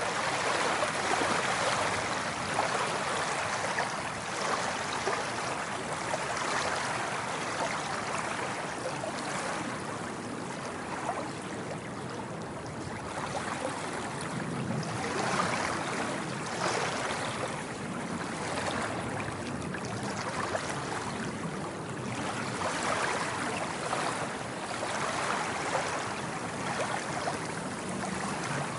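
Sea waves washing in, a continuous hiss of moving water that swells and eases every few seconds.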